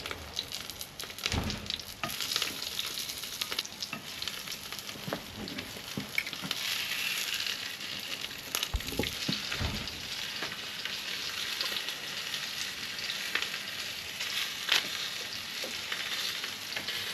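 Pork sausages sizzling in a frying pan over hot coals, a steady hiss with scattered pops, and a few dull knocks of the pan or utensils.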